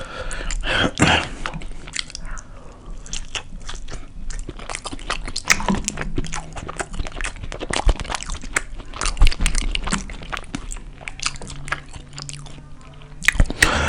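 Close-miked chewing and biting of a beef burrito, with many quick, irregular wet mouth clicks.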